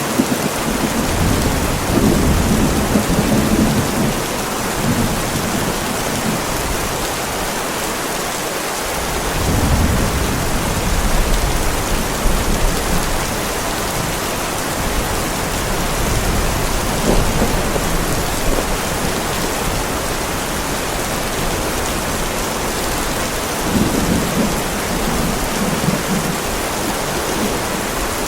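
Heavy rain falling on a driveway, a steady dense hiss. Thunder rolls under it several times: at the start, around the middle and near the end.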